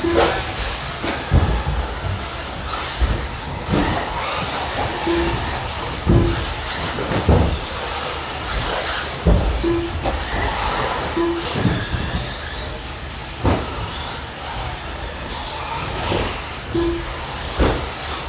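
Electric brushless-motor RC truggies and stadium trucks racing: a continuous whine of motors and tyres with repeated sharp thuds from landings and impacts. Short beeps recur every second or few as cars cross the lap-timing loop.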